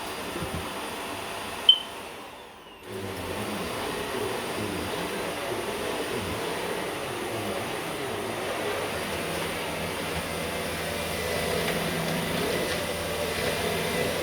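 Vacuum cleaner running steadily on a floor. About two seconds in there is a sharp click, and the sound drops away for about a second before the vacuum runs on.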